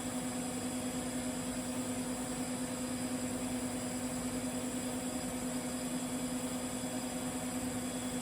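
TIG welding arc on carbon steel pipe, a steady buzzing hum with a high hiss over it.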